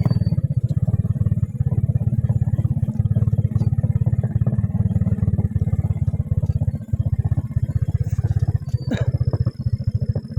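Small motorcycle engine running steadily at low speed, its rapid exhaust pulses thudding evenly, with a brief knock about nine seconds in.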